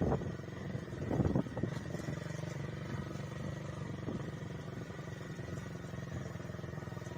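Motorcycle engine running steadily while riding, with two gusts of wind noise on the microphone in the first second and a half.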